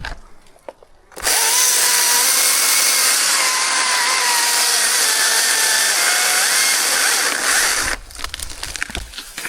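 Chainsaw running at full throttle for about seven seconds, starting abruptly about a second in and cutting off near the end; its pitch sags slowly and then jumps back up, as under the load of a cut.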